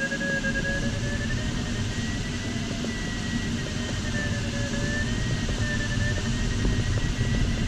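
Steady rush of air past an LS4 sailplane's cockpit, with a variometer's continuous electronic tone drifting slowly up and down in pitch as the climb rate varies while the glider circles in a thermal.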